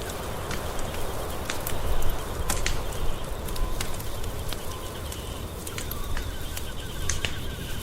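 Wood fire crackling, with sharp pops scattered irregularly over a low steady rumble. A faint, rapid chirping trill joins in the background about five seconds in.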